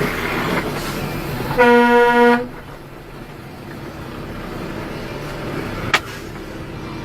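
A car horn sounds once, a single steady honk of just under a second about one and a half seconds in, over vehicle road noise. A short sharp click comes near the end.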